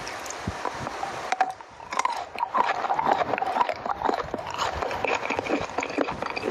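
Close-miked chocolate being bitten and chewed: a steady hiss at first, then from about two seconds in a dense run of crunching, crackling clicks.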